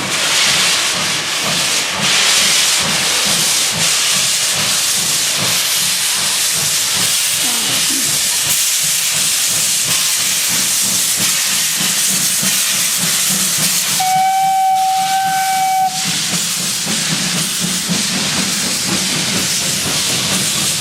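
Ty2 steam locomotive hissing steam steadily as the train starts off, with a low rhythmic pulsing underneath. About fourteen seconds in, a steady whistle sounds for about two seconds.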